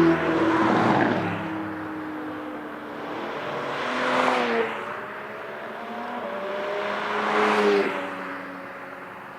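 Track cars passing at speed one after another, about four passes, the engine pitch dropping as each goes by. The sound fades away near the end.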